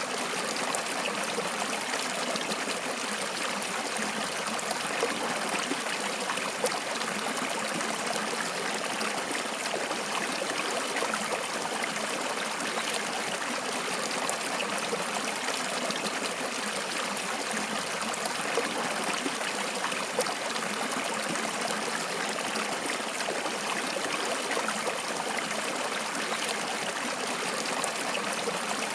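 Stream of flowing water running steadily over rocks, an even rushing and trickling.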